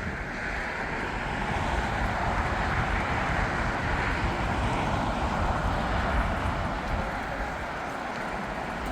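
Jet airliner passing, a steady rushing jet noise that swells through the middle and eases off near the end, over a low rumble.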